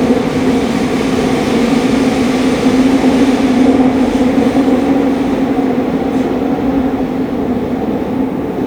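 Running noise inside a Fukuoka City Subway 2000 series car (set 23, Hitachi GTO-VVVF) travelling between stations: a steady rumble with a low hum. It swells a little about three to four seconds in and eases off toward the end.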